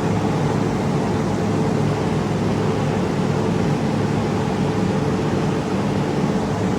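Steady machine hum with fan noise, from a handheld laser welder's cooling unit running.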